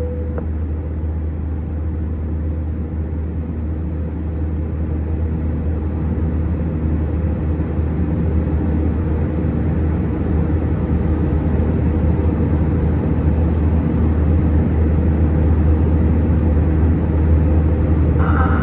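Steady cabin noise of an Airbus A320-211 in flight, heard from inside the cabin: a deep rumble from its CFM56 engines and the airflow over the fuselage, growing slightly louder.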